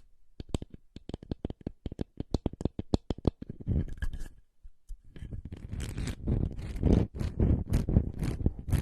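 ASMR trigger sounds: a quick, irregular run of crisp taps or clicks, then, after a brief pause, denser scratching and crackling from about five seconds in.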